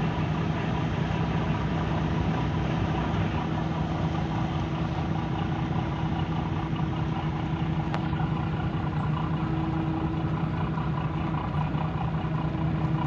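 A ferry's diesel engines running at a steady low drone while it berths, with a faint tick about eight seconds in.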